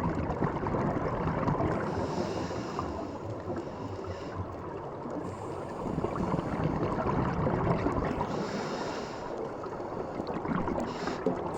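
Water rushing and splashing, a steady, uneven wash of noise.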